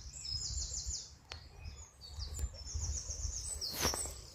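Songbirds singing: short, high, rapid trilled phrases, one about half a second in and another near three seconds, over a low rumble. A brief knock comes near the end.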